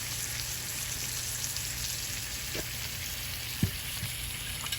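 Chicken pieces sizzling steadily as they fry in olive oil in a pan, with a short sharp tap about three and a half seconds in.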